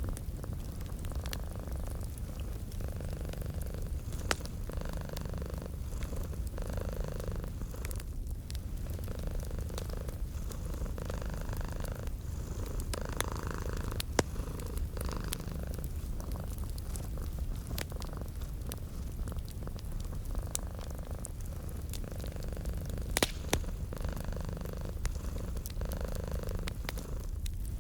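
A cat purring steadily, its purr swelling in and out with each breath, over the sharp pops and crackles of a wood fire in a fireplace.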